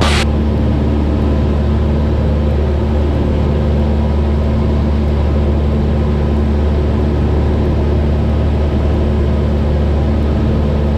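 Cessna 172's piston engine and propeller droning steadily in cruise flight, heard inside the cabin.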